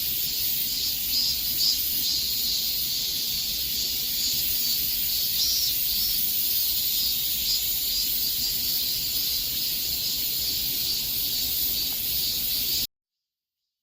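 A chorus of cicadas buzzing in a steady, dense, high-pitched drone. It cuts off abruptly about a second before the end, leaving complete silence.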